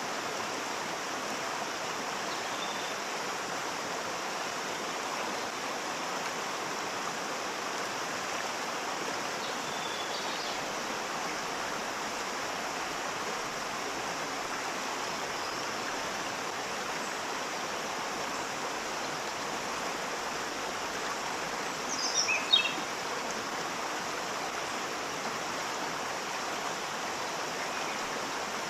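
Waterfall: a steady, even rush of falling water. About three-quarters of the way through, a short bird chirp falls in pitch, the loudest moment; fainter high chirps come about a third of the way in.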